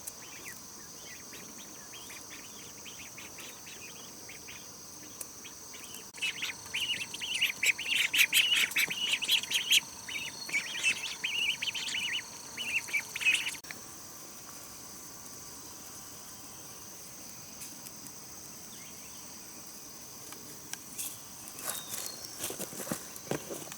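Birds chirping in a dense, rapid chatter from about six seconds in, stopping abruptly a little before halfway, over a steady high-pitched insect drone. Near the end come a few irregular crackles.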